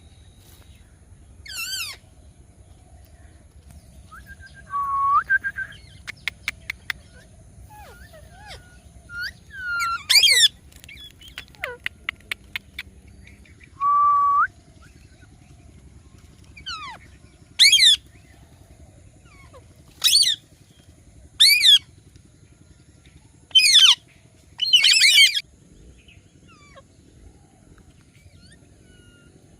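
Indian ringneck parakeet calling: short, shrill screeches, about seven scattered through, most of them in the second half. Between them come two short level whistles and two quick runs of clicks.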